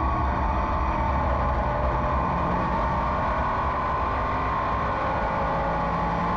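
Race car engine running hard at racing speed, heard from inside the car as a steady drone with its pitch drifting slightly.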